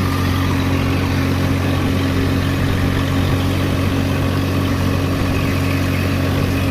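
Swaraj tractor's diesel engine running at a steady, unchanging speed.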